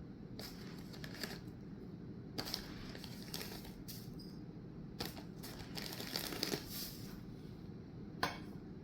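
Faint scattered taps, clicks and rustles of small things being handled, a few sharper clicks spaced roughly a second apart, over a quiet steady background.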